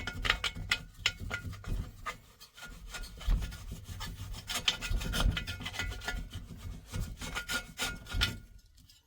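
Rapid, irregular scraping and rubbing of a tool against a diesel heater's heat exchanger, working coked-up soot and carbon out from between its fins. The scraping stops shortly before the end.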